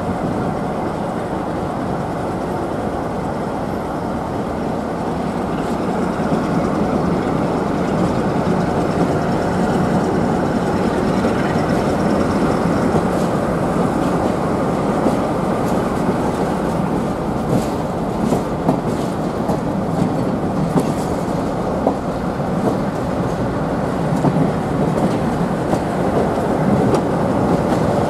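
A heritage train's carriages rolling slowly out of a station, heard from a carriage window: a steady rumble of wheels on track that grows a little louder as the train gathers speed. From about halfway through come sharp wheel clicks over rail joints and pointwork.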